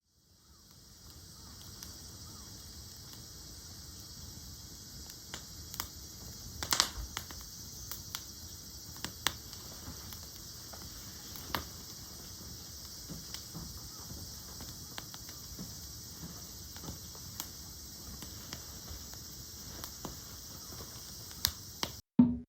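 Wood campfire crackling, with scattered sharp pops over a steady high hiss.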